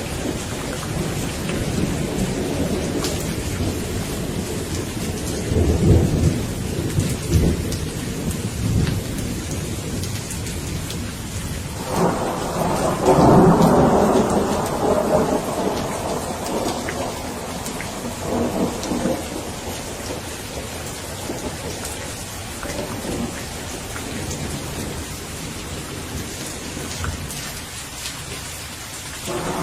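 Steady rain in a thunderstorm with rolling thunder. A low rumble comes a few seconds in; a stronger thunderclap breaks suddenly about twelve seconds in and rumbles away over several seconds.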